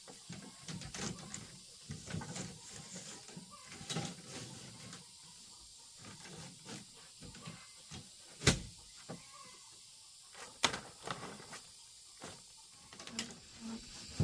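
Scattered light knocks and taps, with a sharp knock about eight and a half seconds in and another about two seconds later.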